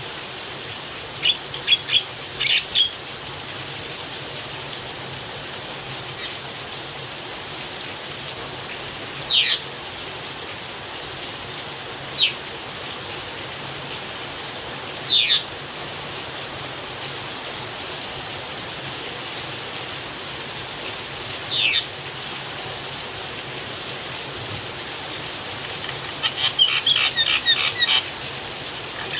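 Javan myna calling over steady rain noise: a few short notes near the start, then single sharp downward-sweeping calls every few seconds, and a quick chattering run of notes near the end.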